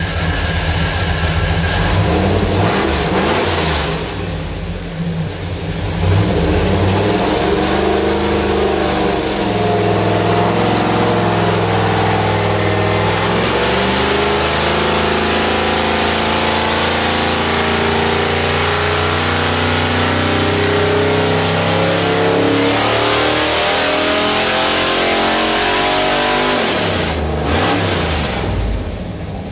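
Chevrolet 434 cubic-inch stroker small-block V8 running on an engine dyno. It revs, eases off briefly, then runs hard and steady for about twenty seconds in a dyno pull before dropping back near the end.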